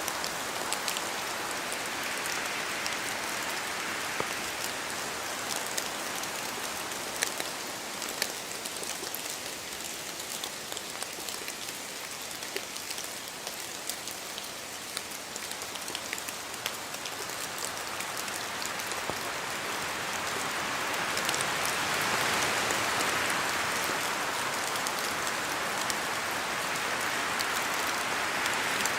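Steady rain in a spruce forest, with many separate drops ticking as they fall from the trees. The wind's rush through the spruces dies down early on and swells up louder about two-thirds of the way through.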